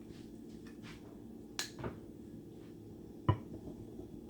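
A few light clicks and one louder knock about three seconds in, from kitchen utensils and containers being handled while mixing a batter, over a low steady hum.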